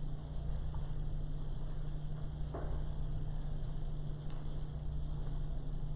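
Steady low electrical hum with faint hiss, with one faint click about two and a half seconds in.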